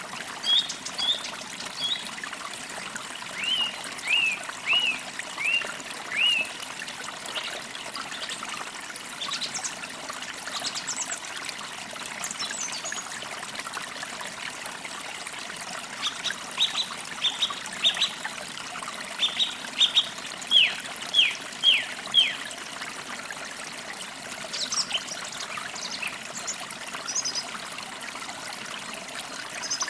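Songbirds calling over a steady trickling stream: runs of short, quickly falling whistled notes, a run of four about four seconds in and a longer run of about eight in the second half, with thin high chirps scattered between.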